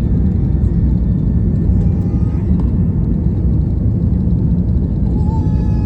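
Low, steady rumble of a Boeing 757's jet engines on approach, with a faint whine starting near the end.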